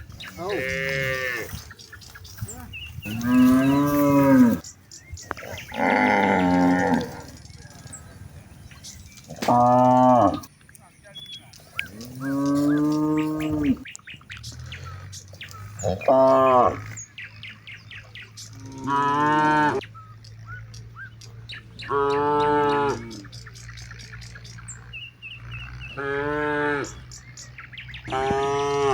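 Cattle mooing, about ten long calls a few seconds apart.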